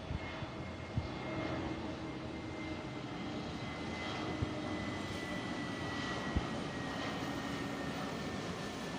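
Twin-engine jet airliner coming in to land, its engine noise slowly growing louder, with a high whine that glides slowly down in pitch. A few sharp ticks sound over it.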